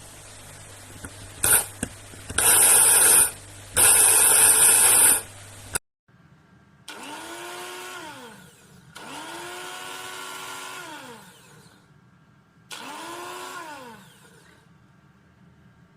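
300 W electric coffee grinder run in short pulses: two loud, noisy bursts, then after a cut three quieter pulses in which the motor's whine climbs as it spins up and falls away as it coasts down.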